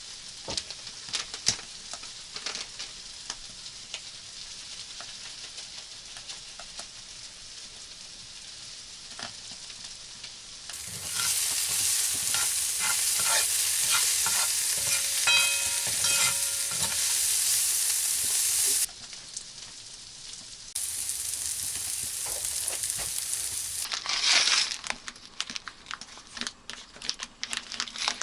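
Food sizzling as it fries in a pan, a steady crackling hiss with frequent small pops. It gets noticeably louder about 11 seconds in, drops back briefly, comes up loud again, and gives way to scattered crackles near the end.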